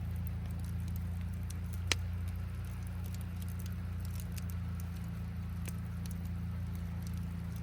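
Campfire crackling, with scattered sharp pops and one louder pop about two seconds in, over the steady low rumble of a flowing river.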